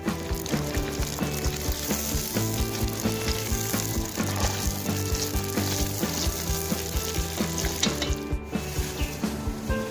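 Hot oil sizzling steadily in a cast-iron kazan as chunks of food and onion fry in it, with a brief dip in the sizzle about eight seconds in. Background music with a steady beat plays under it.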